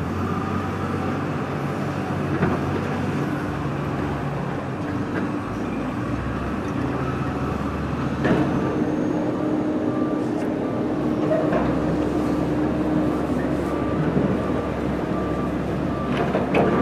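Heavy demolition machinery running steadily, with occasional knocks and clatter of debris. From about ten seconds in, a backup alarm beeps at an even pace.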